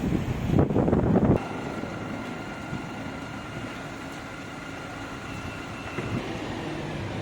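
Wind buffeting the microphone for about a second and a half, then stopping suddenly; after that a quieter steady mechanical hum with a faint high whine.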